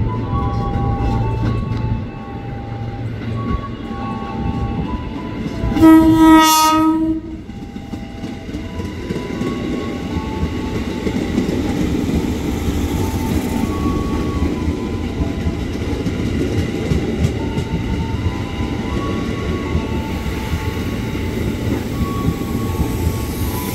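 KRL electric commuter train running through the station with a steady rumble of wheels on rail. It sounds one loud horn blast about six seconds in, lasting just over a second.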